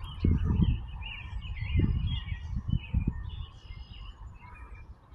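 Birds chirping in many short quick notes, over a few low muffled thumps on the microphone in the first three seconds.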